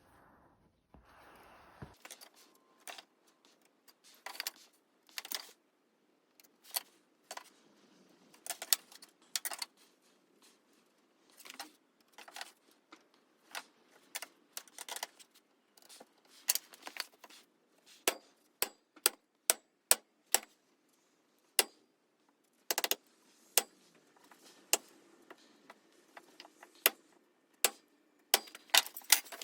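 Irregular sharp clicks and taps of small hard parts being handled and set down, with a short run of evenly spaced taps partway through and quicker clicking near the end.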